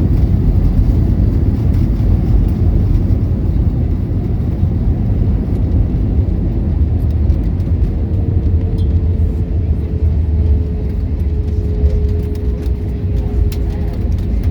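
Jet airliner cabin noise: a loud, steady low rumble from the engines and airframe. A faint steady whine comes in about halfway through and drops slightly in pitch.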